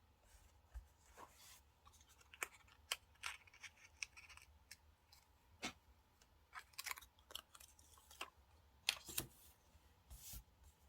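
Small desk-crafting sounds of paper and stickers being handled on a diary: irregular light clicks, taps and short rustles, with the sharpest pair of clicks a little after nine seconds in.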